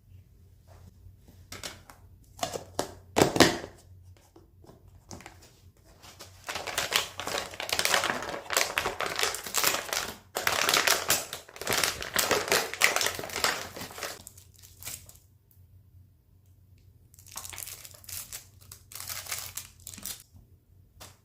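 Crinkling and crumpling handled by hand, in bouts: a few sharp crackles first, then a long stretch of dense crinkling through the middle and a shorter one near the end.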